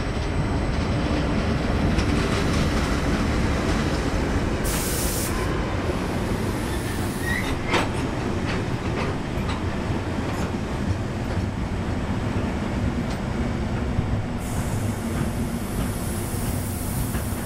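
Standard-gauge freight wagons rolling past at close range: a steady rumble of wheels on the rails, with a sharp clack a little before the middle and a brief high hiss about five seconds in and again near the end.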